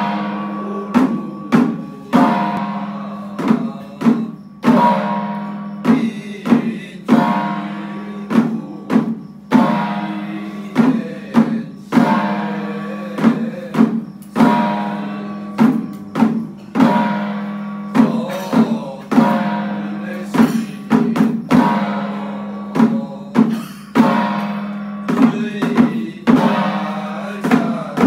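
Percussion music of repeated struck drums and ringing metal instruments, about one to two strikes a second, each ringing out over a steady low tone.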